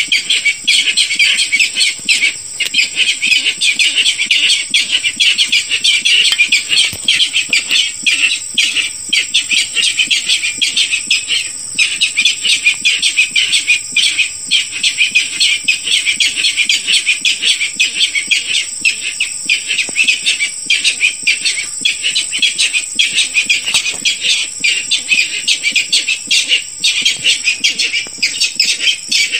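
Barred rail calling: a continuous run of rapid, harsh repeated notes, broken by brief gaps now and then.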